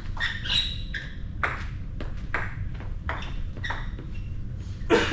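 Table tennis rally: the ball clicking sharply off bats and the table every half second to a second, with a louder, heavier hit near the end.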